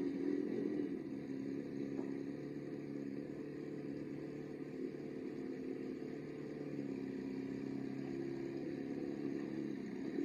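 Ferrari 328's 3.2-litre V8 idling steadily.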